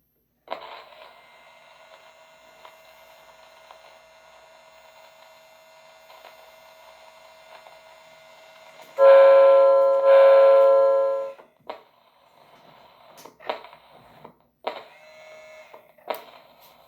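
Model train locomotive's sound system playing two long horn blasts, about nine and ten seconds in, over a steady hum of its running sounds; a few short clicks follow near the end.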